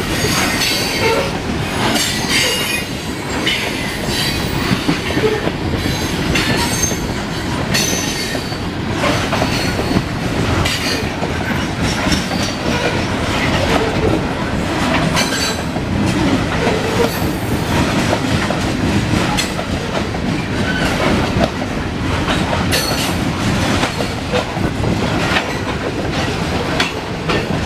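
CSX coal train's cars rolling past in a steady, loud rumble, with many sharp clicks of wheels over the rails and short high-pitched wheel squeals.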